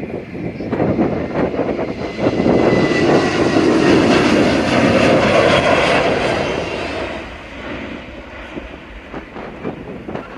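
ANA Boeing 737-800's CFM56 jet engines at takeoff power as the airliner passes, the sound swelling to a peak about halfway through and then fading away. Strong wind buffets the microphone throughout.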